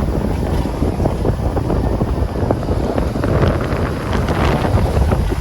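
Vehicle driving on a rough dirt and gravel road: a steady low rumble with many quick knocks and rattles, busiest about halfway through.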